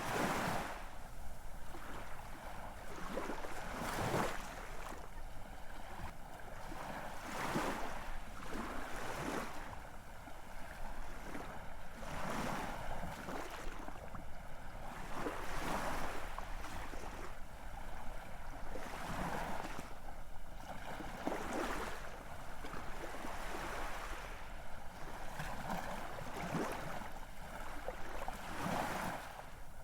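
Ocean waves washing in and drawing back, one rushing surge after another every two seconds or so.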